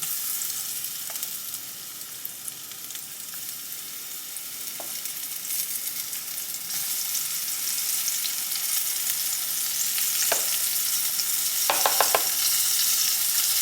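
Asparagus spears frying in hot oil in a pan: a steady high sizzle that grows louder about halfway through, with a few light clicks near the end.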